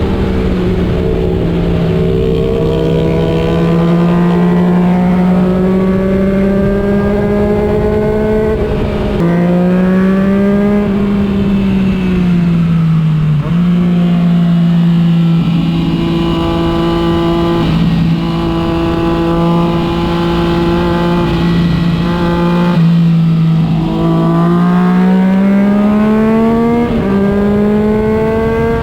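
Motorcycle engine heard from the bike while riding, its pitch climbing and falling with the throttle and jumping at gear changes, with wind rushing underneath.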